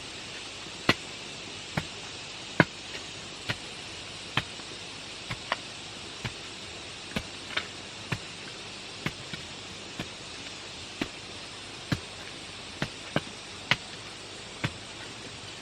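Repeated sharp knocks of hard strikes, about one a second and slightly irregular, some in quick pairs, over a steady high hiss of forest insects.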